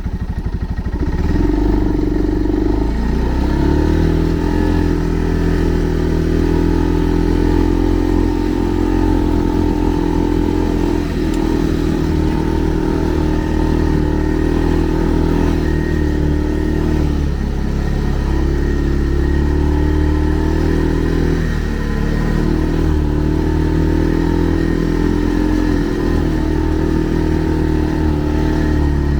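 Segway Snarler 570 ATV's engine running steadily as it is ridden, with a few shifts in engine speed along the way.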